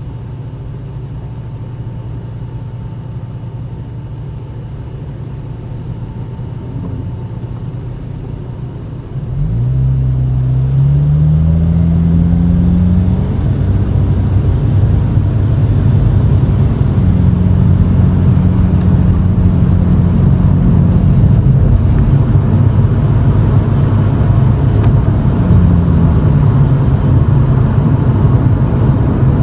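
Exhaust of a Toyota GX100 Chaser's 2.0 L straight-six through a Reinhardt aftermarket cannonball muffler, heard from inside the cabin. It is a steady low rumble at first; about nine seconds in it gets suddenly louder as the car pulls away. The pitch rises, drops back briefly and then climbs again to a steady low-speed cruise.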